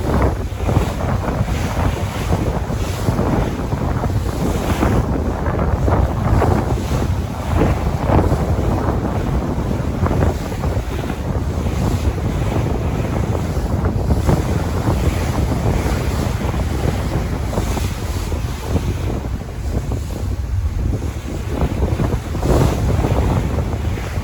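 Sea waves washing in continuously, surging every second or two, with wind rumbling on the microphone.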